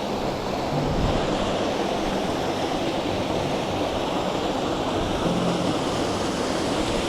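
Steady rushing of a brook's waterfall cascade, an even hiss without pauses.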